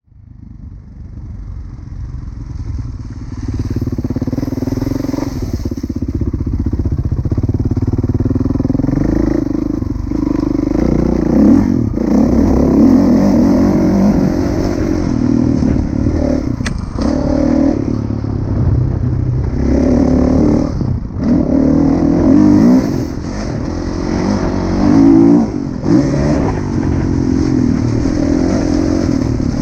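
Kawasaki KX450F four-stroke single-cylinder motocross engine being ridden hard, revving up and down again and again with short dips where the throttle is closed or a gear is changed. It fades in over the first few seconds.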